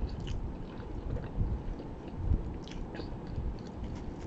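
A person chewing a mouthful of pizza with the mouth closed: soft, irregular chewing with a few small mouth clicks.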